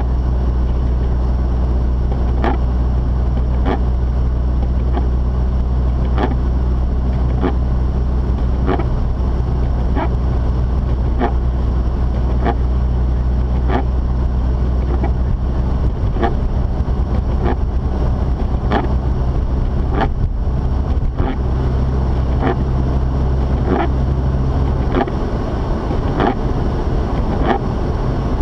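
Steady in-cabin driving noise of a Mazda RX-8 with its twin-rotor rotary engine: a constant low drone with tyre and road noise. A short tick repeats about every second and a quarter, and the drone's pitch shifts slightly near the end.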